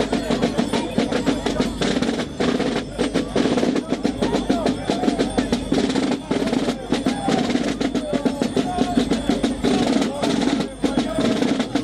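Drums beating a fast, continuous rolling rhythm, with crowd voices underneath.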